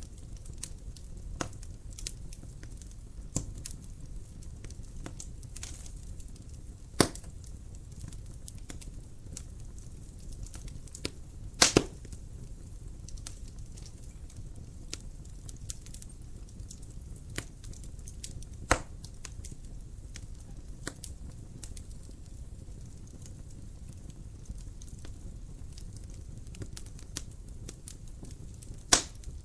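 Wood fire in a fireplace crackling over a low steady rumble of the flames, with scattered sharp pops, the loudest about 7 s in, a double pop around 12 s, and others near 19 s and near the end.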